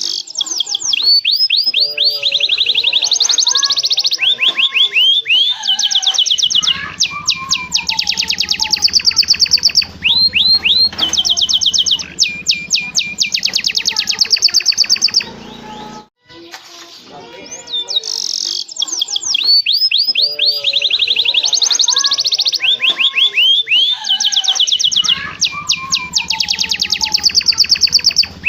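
Domestic canary singing a long, varied song of fast trills, rapid repeated notes and sweeping whistles, in the loud, rolling style prized for training young canaries. After a brief break about halfway through, the same stretch of song starts over as a loop.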